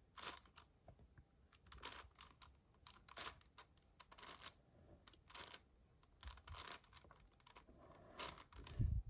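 Magnetic 7x7 Rubik's cube being turned layer by layer: faint, irregular clicks and swishes of the layers moving, a few per second with short pauses between.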